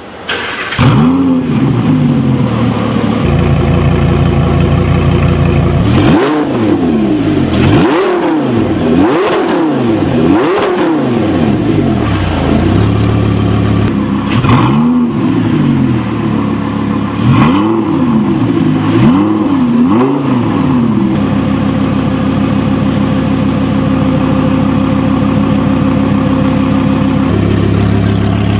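Audi R8 V10 Plus's 5.2-litre V10 through an Armytrix titanium exhaust, starting up with a short flare and settling into a steady idle. It is then blipped in quick rev bursts: a run of four, a single one, and a run of three, each rising and falling sharply, before returning to idle.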